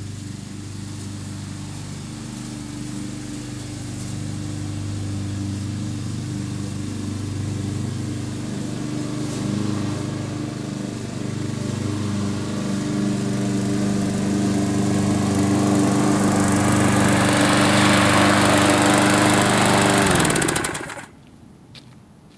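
Gasoline lawn mower engine running steadily and growing louder as it comes closer, then shut off about 21 seconds in, its note falling as it winds down to a stop.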